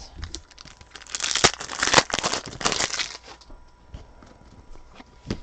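Trading cards being handled and slid through the hands, with crinkling of plastic or card stock: a dense patch of crackly rustling about a second in, lasting about two seconds, then a few light clicks.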